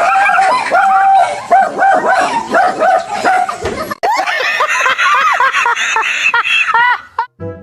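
A dog barking and yipping in quick, short calls, several a second; about four seconds in the calls turn higher and more yelping.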